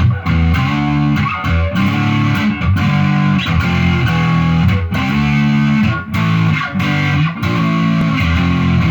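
Electric guitar with a Seymour Duncan Hot Rails pickup in the neck position, played through an amp at full gain. It plays a riff of heavily distorted chords, broken by several brief pauses.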